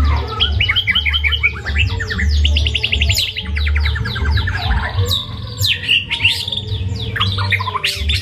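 White-rumped shama (murai batu) singing a fast, varied song of rapidly repeated chirps and trills with mimicked phrases mixed in. A steady low hum runs underneath.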